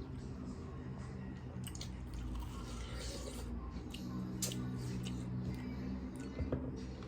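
Wet chewing and mouth sounds of someone eating, with scattered short crisp clicks, over a faint steady low tone.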